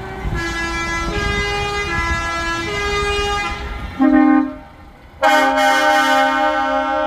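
Truck air horns: a horn switching back and forth between two notes for about three seconds over engine rumble, then a short loud blast about four seconds in and a long loud blast from about five seconds in.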